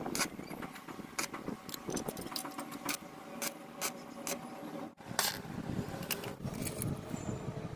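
Irregular clicks and light knocks of hard objects being handled, over a faint steady hum.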